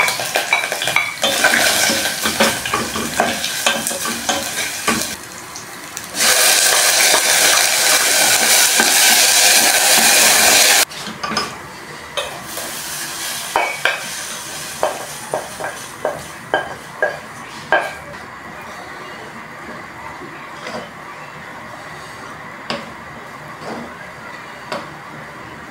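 Food scraped from a plate into hot oil in a small steel saucepan, sizzling loudly under a spatula, with a loud steady sizzle that cuts off suddenly about eleven seconds in. Then a spatula knocks about a dozen times against the rim of a saucepan and a pot. This gives way to quieter stirring of rice in the pot with a few light taps.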